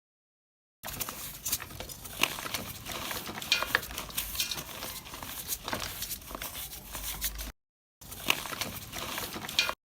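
Dry mud-and-cement cups being crumbled: a dense run of dry crackles and sharp snaps. It starts about a second in and breaks off suddenly for half a second near the end.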